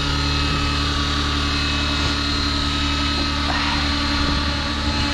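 Align T-Rex 650X electric RC helicopter in flight, its rotor and motor running with a steady, even hum and whine at the raised head speed of stunt 1 (70% throttle). It runs smoothly, without vibration, now that the blade tracking is sorted.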